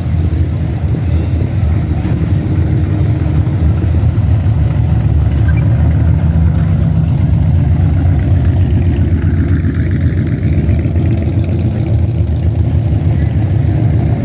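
Classic car engines running with a steady, loud low rumble.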